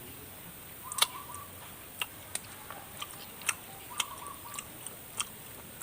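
Close-miked eating sounds from chewing spicy chicken feet: sharp, irregular clicks and crunches of the teeth working at the small bones and skin, roughly one a second, over a low steady background.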